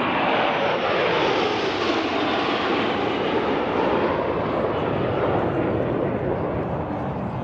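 Airplane passing low overhead: a loud, steady engine rush with a slowly sweeping tone, easing slightly toward the end.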